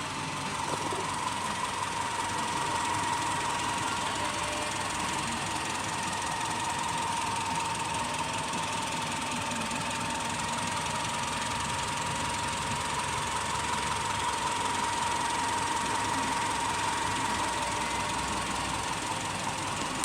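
Subaru Forester's flat-four boxer engine running steadily at idle, with a steady whine over the engine noise.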